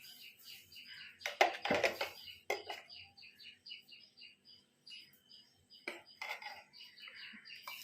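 A utensil knocking and clinking against a mixing bowl a few times, loudest about one and a half to two seconds in and again near six seconds, while a bird chirps quickly and steadily in the background.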